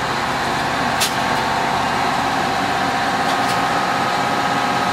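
Fire engine's engine running steadily, with a short hiss of air about a second in and two fainter hisses a little past three seconds.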